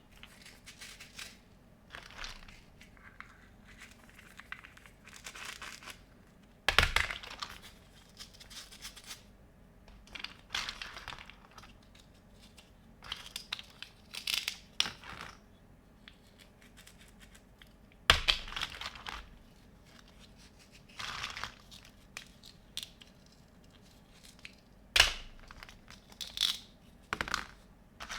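Plastic packaging being unwrapped by hand: irregular bursts of crinkling, rustling and tearing, with a few sharper, louder crackles or clacks spread through.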